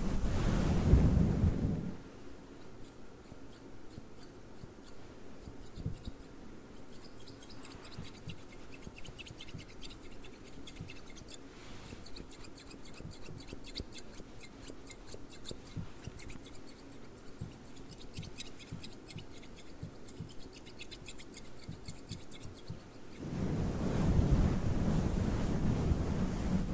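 A fluffy microphone cover rubbed over the microphone makes a loud low rushing rumble near the start and again near the end. In between come quieter scissors snipping and scratching close to the microphone, rapid fine clicks.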